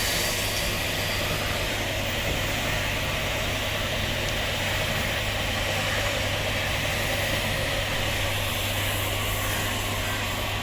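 Steady machine hum with a strong low drone and even noise over it, unchanging throughout.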